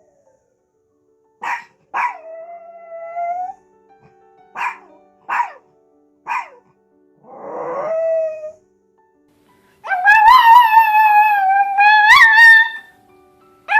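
Dogs barking and howling: five short barks in the first half, one trailing into a short whine, a rougher yowl near the middle, then a loud, long, wavering howl from about ten seconds in.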